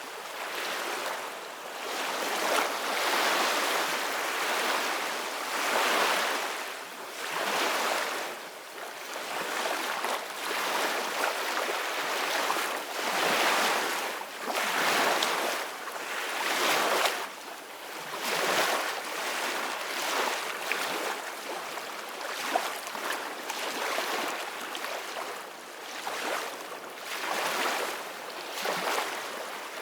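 Ocean waves breaking and washing onto a shore, a continuous surf hiss that swells and falls back every few seconds.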